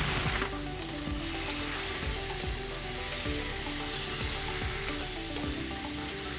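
Fried rice sizzling in a hot wok while a wooden spatula stirs and tosses it, with a few light knocks of the spatula against the pan. Soft background music plays under it.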